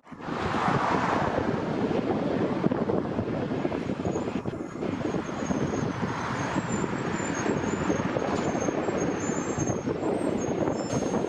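Jet airliner engines running with a steady rumble, and a faint high whine joining about four seconds in, with wind buffeting the microphone.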